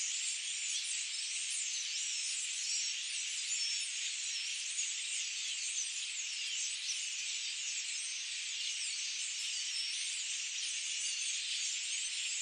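Dense chorus of many small birds chirping and twittering at once, a continuous high-pitched chatter with no low sounds.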